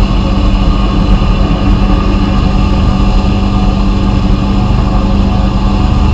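Blasting equipment running steadily: a continuous spray hiss over a constant machine hum.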